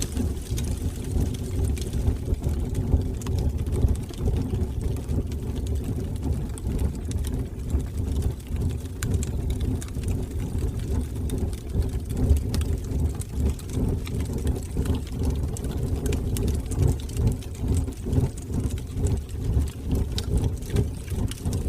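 Fire burning in a fireplace: a low, fluttering rumble of flames with scattered small crackles throughout.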